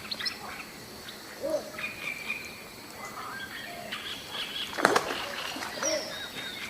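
Birds chirping and calling, with one sharp click or knock about five seconds in.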